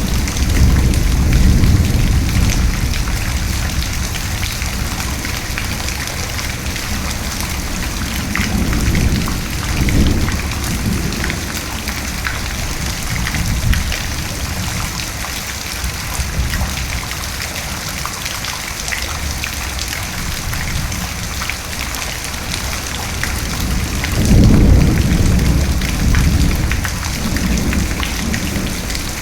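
Steady rain falling, with thunder rumbling low three times: at the start, about ten seconds in, and loudest near the end.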